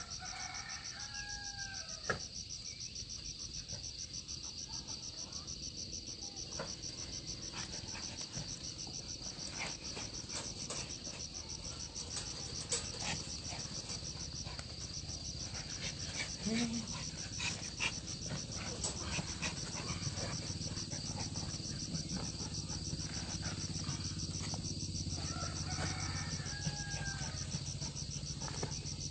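Insects chirring in a steady, high, finely pulsing drone throughout, with scattered soft clicks and knocks in the middle.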